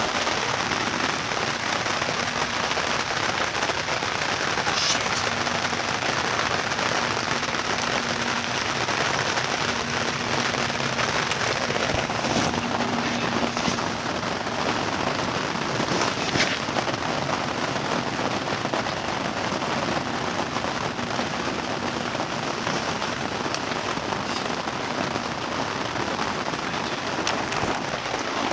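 Steady hissing noise with no speech, with a couple of faint clicks about twelve and sixteen seconds in.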